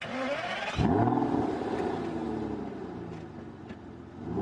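A car engine being revved: its pitch climbs in the first second, then drops back and runs on, easing off toward the end.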